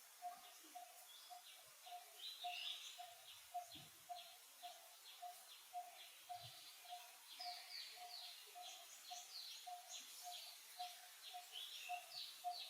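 Birds calling: one bird repeats a short, low note of the same pitch about three or four times a second throughout, while others give quick, high chirps over it.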